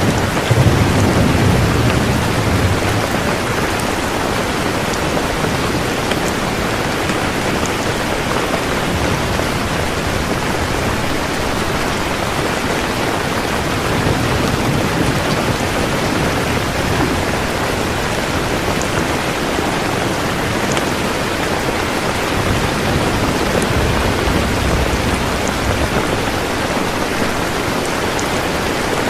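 Steady heavy rainfall hissing evenly, with low rolls of thunder rumbling at the start, about halfway through, and again later on.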